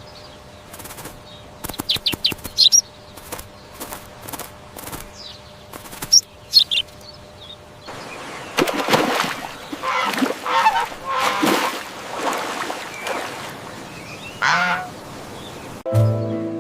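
Geese honking: short calls in the first few seconds, then a run of louder, repeated calls through the second half. Music starts near the end.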